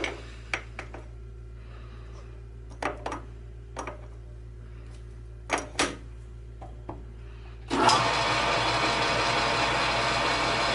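Light metallic clicks and knocks from the part and tools being handled, then about eight seconds in an electric machine motor starts abruptly and runs steadily.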